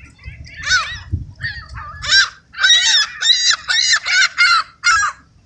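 Seagulls calling loudly: a couple of single squawks, then a quick run of about seven arched calls, roughly three a second, in the excited calling of gulls crowding for food.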